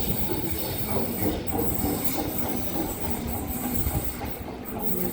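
Sydney Trains electric passenger train moving at a station platform, a steady low rumble of wheels and running gear.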